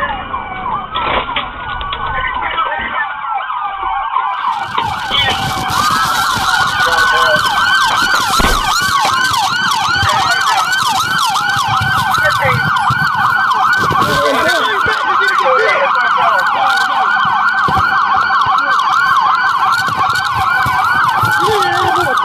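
Police car siren in a pursuit: slow rising and falling wails at first, then a rapid yelp from about five seconds in, over vehicle and road noise.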